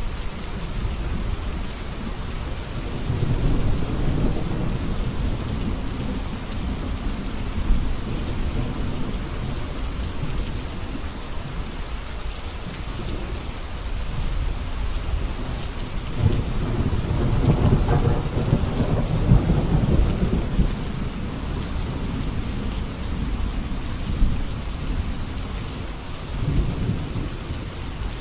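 Steady rain with rolling thunder: low rumbles swell twice, a few seconds in and more strongly from about 16 to 21 seconds in.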